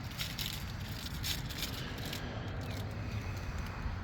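Wind buffeting the microphone outdoors: a steady low rumble with irregular crackling.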